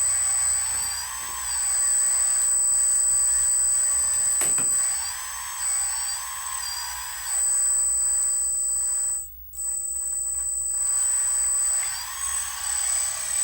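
Electric hydraulic pump of an RC Huina dump truck conversion whining steadily, with a high constant tone and a pitch that rises and falls in a few glides as the dump bed is worked. It cuts out briefly about nine seconds in.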